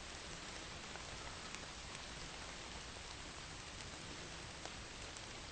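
Steady rain falling through the tree canopy onto leaves, with scattered small drop ticks.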